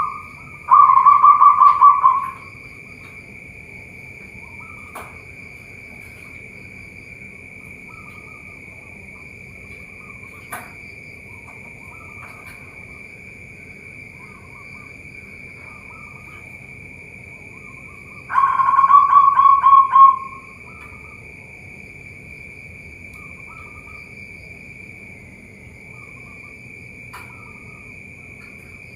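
Zebra doves (perkutut) cooing: two loud calls of quick staccato notes ending in a drawn-out note, about a second in and again near 18 s. Fainter coos from other doves come in between, over a steady high-pitched drone.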